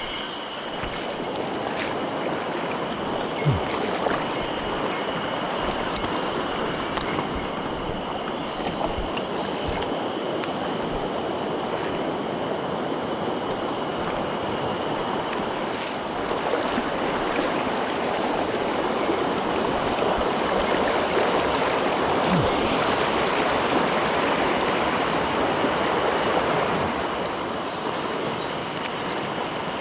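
Mountain stream water rushing steadily, a little louder in the second half. A thin steady high tone runs through the first half, and there are a few scattered clicks.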